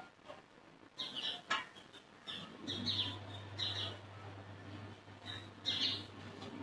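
Birds chirping in short, repeated bursts, with a low steady hum that comes in about two and a half seconds in.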